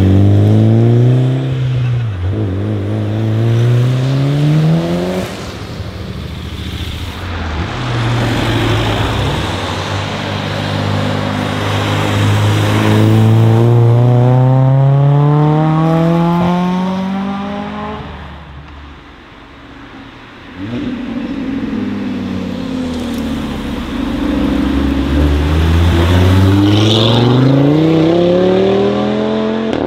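Several tuned cars accelerating hard out of a bend one after another, each engine revving up through the gears with a rising pitch that drops at each upshift. First a Mitsubishi Lancer Evolution's turbocharged four-cylinder, then a Honda Civic hatchback revving long and high, and near the end an Audi RS3 saloon.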